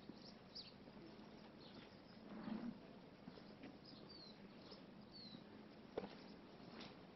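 Faint outdoor ambience with small birds chirping: short high calls, including two quick falling chirps past the middle. A brief low sound about two and a half seconds in and a single sharp click near the end stand out above the quiet background.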